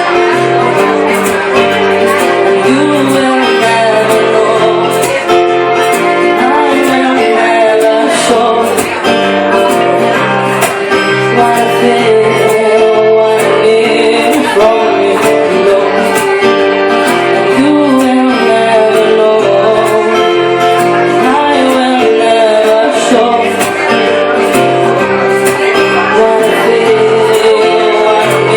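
Live acoustic band playing a song: a woman singing over strummed guitar, with violin.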